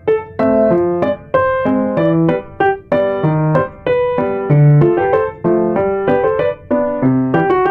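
Background piano music: a light melody of short, evenly paced notes.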